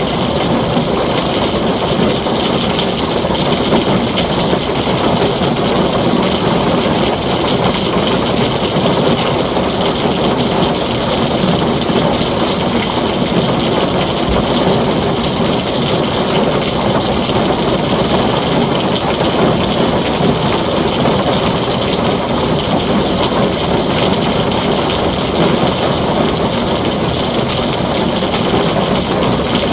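Heavy rain falling steadily on a tin roof, a dense, even hiss with no breaks.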